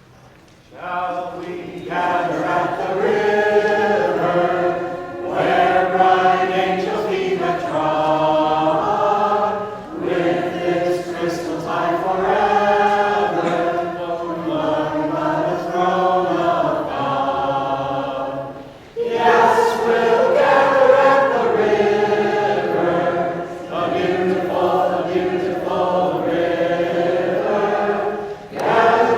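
A small choir singing a song together in harmony, the voices starting about a second in and moving phrase by phrase with brief breaths between.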